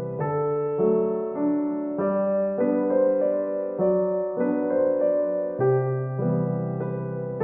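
Soft background piano music, a gentle melody of held notes changing about every half second.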